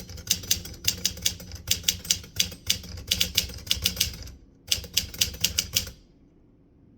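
Typewriter keys striking in quick runs of clacks, several a second, with a brief pause about four and a half seconds in; the typing stops about six seconds in.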